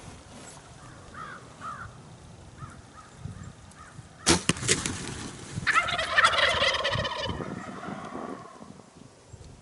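Wild turkey gobbling loudly and close by, one long rattling gobble about six seconds in that trails off. A few sharp clicks come just before it, and faint short calls sound early on.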